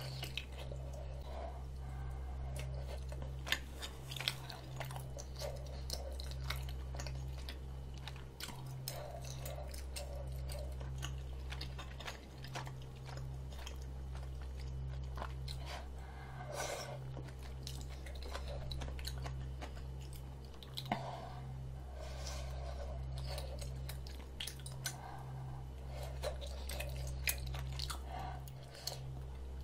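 Close-miked chewing of spicy rabokki, chewy tteokbokki rice cakes and ramen noodles, with many small mouth clicks throughout, over a steady low hum.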